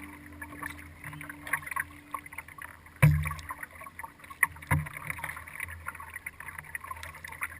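Kayak being paddled: water splashing and dripping from the paddle blades close to the hull. Two sharp thumps about three and four and a half seconds in are the loudest sounds.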